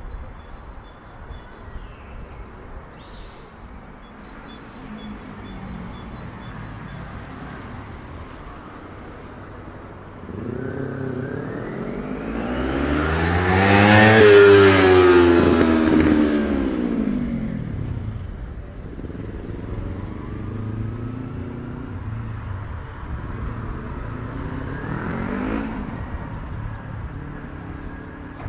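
A motor vehicle passes close by on a city street, its engine note rising as it approaches and falling as it goes away, loudest about halfway through. A second, fainter vehicle passes near the end, over steady street noise.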